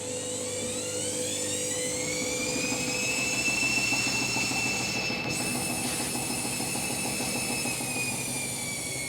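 Candy Grand'O Vita 7kg washing machine on its pre-wash spin: the drum motor whines, rising in pitch over the first few seconds as the drum speeds up, then holds steady and eases down slightly near the end, over a steady hum.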